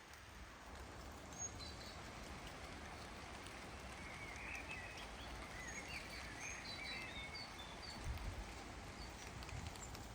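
Steady rain falling, with small birds chirping in short, quick notes through the middle of the stretch. A brief low rumble comes in near the end.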